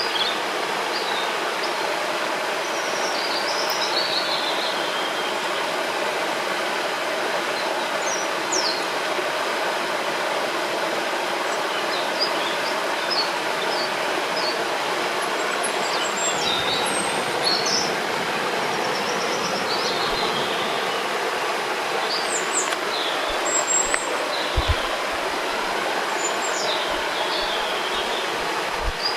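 Steady rushing of a river or waterfall, with small birds chirping and whistling short phrases over it throughout.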